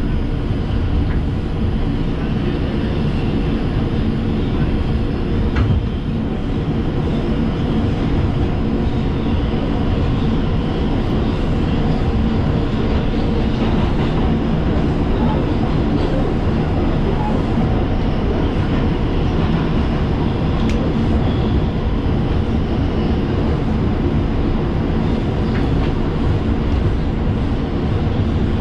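The inside of an R142 subway car on an express run between stations: a steady rumble and rush of wheels on rail, with a faint steady hum under it and an occasional light click.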